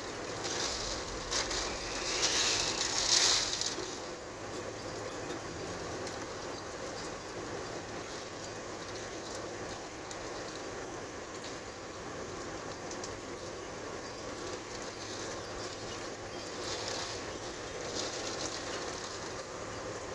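Thunderstorm wind and rain: a strong gust swells and peaks about three seconds in, then settles into a steady rushing noise.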